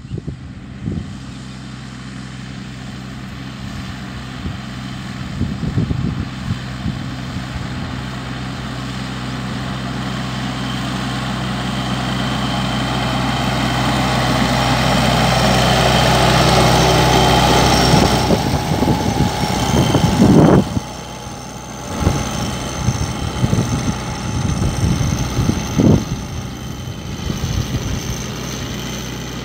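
Tractor engine running steadily, growing gradually louder over about eighteen seconds, then dropping off sharply about twenty seconds in and running on unevenly.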